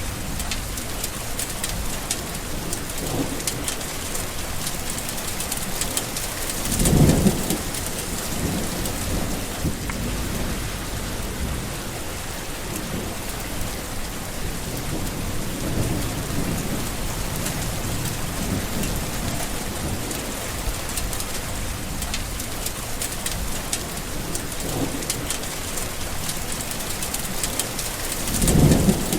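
Steady heavy rain, with rolls of thunder rumbling low: a strong one about seven seconds in, another near the end, and a few fainter ones between.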